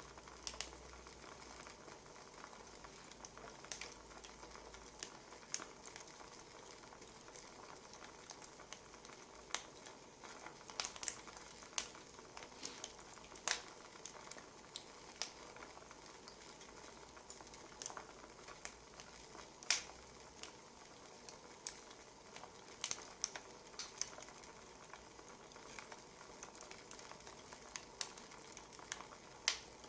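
Wood fire burning: a steady soft hiss with irregular sharp crackles and pops from the burning logs.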